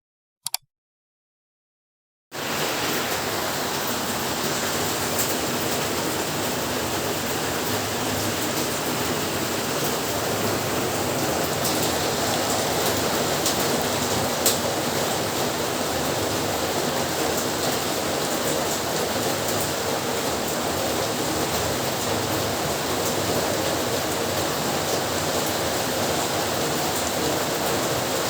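Heavy rain falling steadily, starting suddenly about two seconds in after a brief silence, with an occasional sharper drop or tap standing out.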